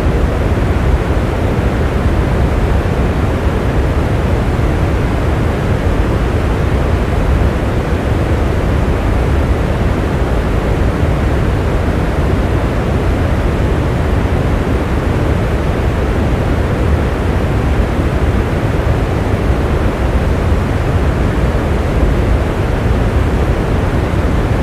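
Steady heavy rain: a dense, even rushing noise, deep rather than crackly, with no single drops standing out and no change in level.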